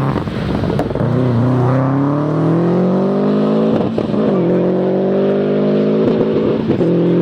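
Four-wheel-drive rally car engine accelerating hard through the gears, its pitch climbing, dropping sharply at an upshift about four seconds in, climbing again, then another upshift near six seconds before it holds a steady high note.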